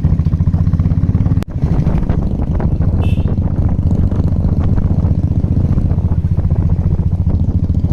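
Motorcycle engine running steadily close to the microphone, with a fast, even pulsing beat and a brief break about one and a half seconds in.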